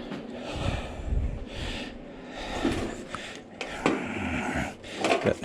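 Handling noise from work on the condenser unit: irregular rustling with a few sharp clicks and light knocks, and short low rumbles.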